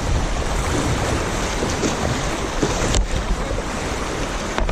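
River water rushing around a kayak, with wind buffeting the microphone. Two brief knocks come about three seconds in and near the end.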